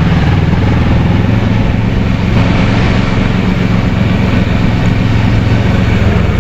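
Kawasaki Versys 650's parallel-twin engine pulling steadily under way, mixed with the steady rush of wind and road noise.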